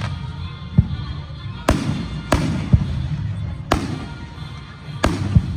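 Aerial fireworks bursting: a string of four sharp bangs, with deeper thuds in between and a low rumble underneath.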